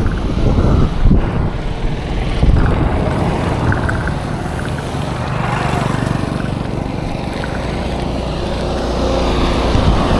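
Road traffic noise, with motor vehicle engines running and a steady low rumble of wind on the microphone.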